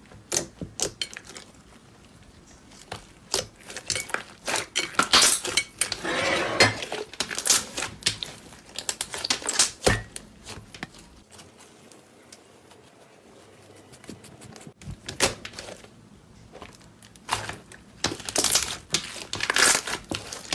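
Slime being squeezed and poked by hand, giving a quick run of sharp pops and crackles, with a quieter pause in the middle.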